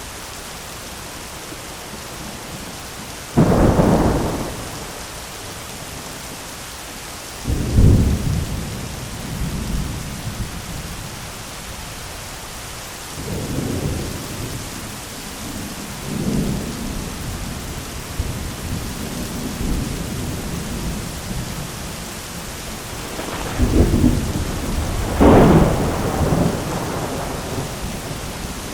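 Heavy rain pattering steadily on an umbrella, with thunder rumbling several times: sharp claps about three and a half and eight seconds in, softer rolls in the middle, and the loudest double peal near the end.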